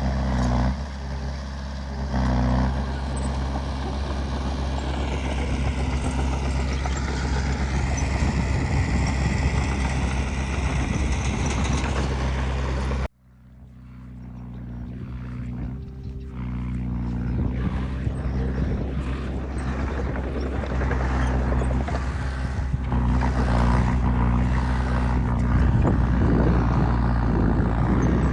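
Heavy diesel machinery engine running steadily. About halfway through, the sound cuts off abruptly, then builds back up to the same steady running.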